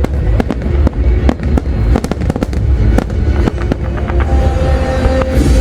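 Fireworks going off non-stop: a dense run of sharp bangs, several a second, over a continuous low rumble of bursts.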